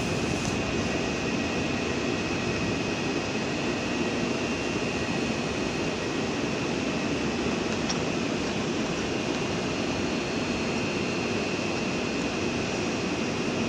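PESA Dart ED161 electric multiple unit giving off a steady mechanical hum with a constant high whine, unchanging throughout.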